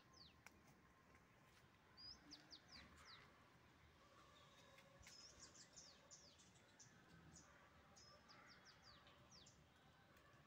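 Faint bird chirping: runs of quick, high, downward-sweeping notes every two or three seconds over faint background noise.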